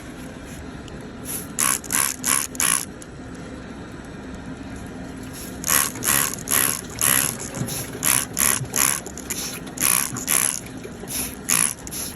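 Short scraping strokes of a trimming tool on a hoof, coming in clusters of about two a second, over a steady low hum, as rocks are dug out from under the sole.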